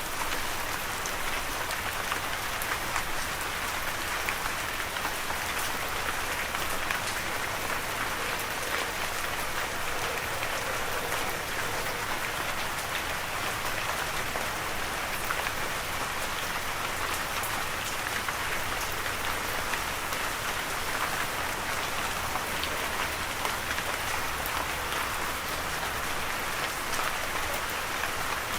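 Steady rain falling on a surface, an even hiss of many drops with fine individual drop ticks, unchanging in strength.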